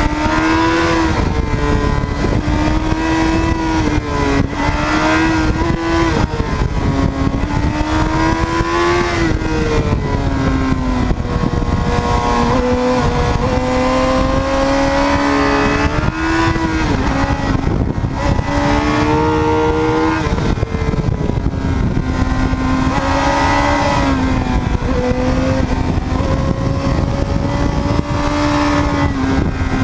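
Suzuki GSX-R750 inline-four engine under way, its revs climbing and falling again and again through the bends, with a few sudden drops in pitch. Heavy wind rush on the microphone runs underneath.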